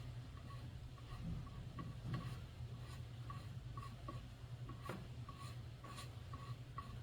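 Faint scratching and light ticks of a hand carving tool working into wood, over a low steady hum.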